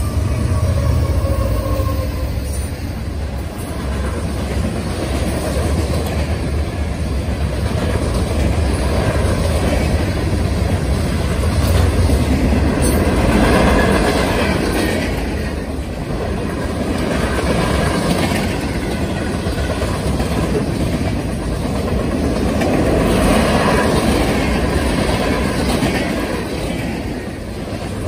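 Norfolk Southern freight train passing at a grade crossing. The trailing diesel locomotives give a heavy low rumble for the first dozen seconds. Then the freight cars roll by, their wheels clattering over the rails in swells every few seconds.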